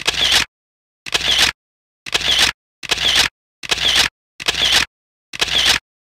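Camera shutter sound effect, clicking seven times, about one every 0.8 seconds, each lasting about half a second with dead silence between.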